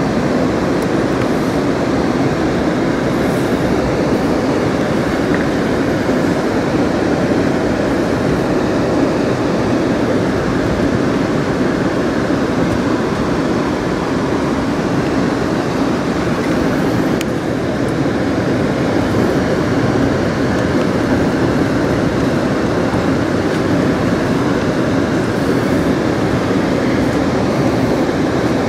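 Amtrak California Zephyr passenger car running along the track, a steady, even noise of wheels on rails heard from inside the car, with a few faint clicks.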